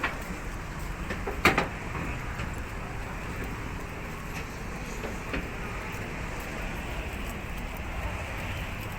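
Steady rumble of vehicle and traffic noise, with a sharp knock about one and a half seconds in and a few fainter clicks.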